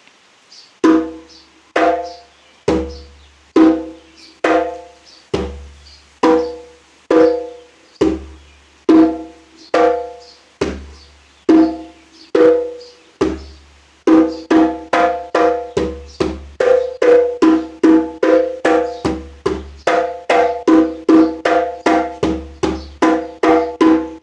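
Djembe struck by hand in a basic-strokes practice exercise: single even strokes about once a second, then from about halfway through, about twice a second. Each stroke rings with a short pitched tone over a low thud.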